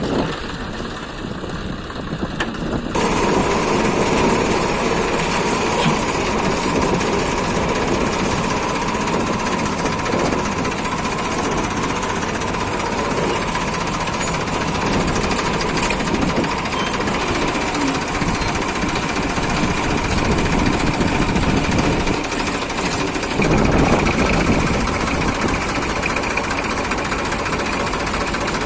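Tractor's diesel engine running hard with a rapid knocking clatter, getting louder about three seconds in.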